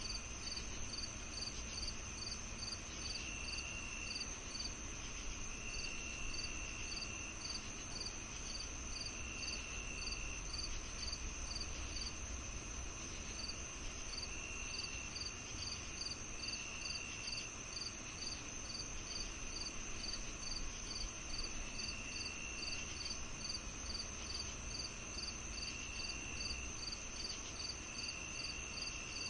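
Chorus of crickets and other insects: a continuous high trill, regular chirps about three a second, and lower trills of about a second that come and go at intervals, over a faint low rumble.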